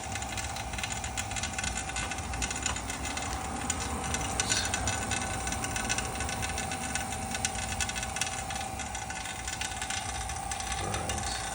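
Vacuum pump running steadily, a dense rattling clatter over a constant mid-pitched hum, pumping down a DIY vacuum furnace chamber that is pulling an OK but not quite full vacuum.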